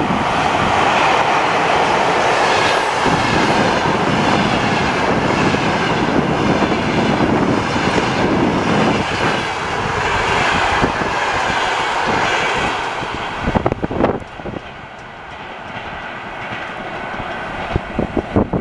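Passenger train hauled by a ChS7 electric locomotive passing close at speed: loud rushing noise of the carriages with clickety-clack of the wheels over rail joints. About two-thirds of the way through the level drops as the last carriage passes and the train runs away, leaving scattered knocks.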